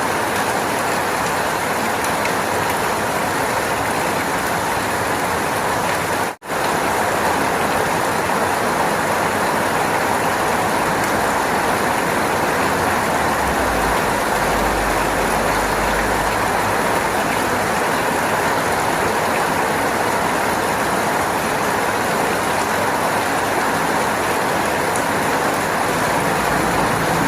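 Steady, dense rain noise with no words, cutting out for a moment about six seconds in. A short low rumble sits under it around the middle.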